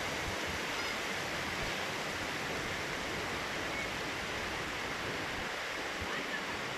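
Heavy rain falling steadily, an even hiss with no breaks or separate drops.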